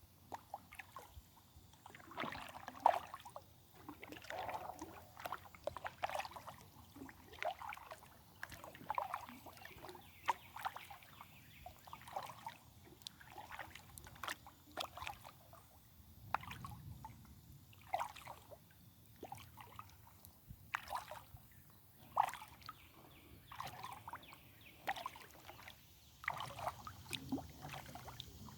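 Kayak paddle strokes in a steady rhythm, about one every second and a half, each blade entering the water with a splash and trickle, with occasional sharper knocks.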